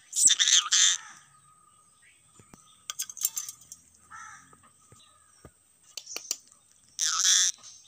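A parrot squawking: a harsh squawk about a second long at the start and another about seven seconds in, with a few sharp clicks and softer sounds between.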